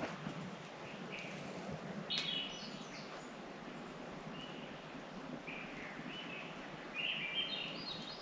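Small birds chirping and calling now and then over a steady background hiss, with a short burst of chirps about two seconds in and a rising run of notes near the end.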